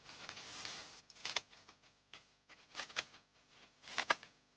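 Dry reeds being handled and bundled: a soft rustle, then three short bursts of crackling clicks spread about a second and a half apart.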